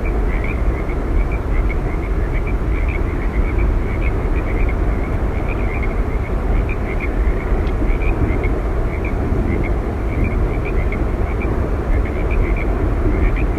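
Steady roar of Yosemite Falls, an even rush of falling water strongest in the low end, with short high chirps dotted irregularly through it.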